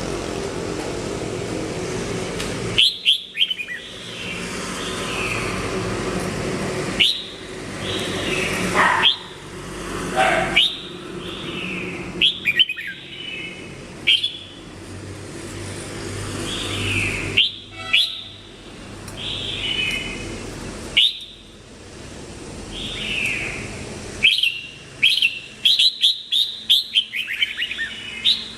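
Red-whiskered bulbul singing: short, loud whistled phrases that slide down in pitch, repeated every second or two, with a quick run of notes near the end. A motor vehicle runs in the background for the first few seconds.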